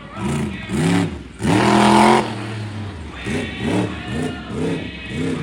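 Monster truck engine revved in short throttle blips, each rising and falling in pitch. The longest and loudest rev comes about a second and a half in, followed by a string of quick blips about two a second.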